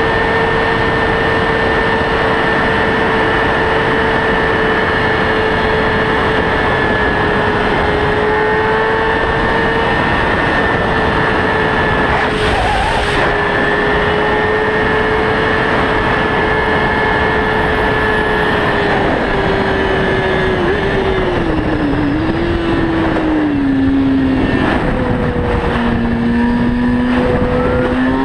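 Motorcycle engine held at steady high revs under a constant rushing noise of speed. About 20 seconds in the revs fall away in steps, then climb again right at the end.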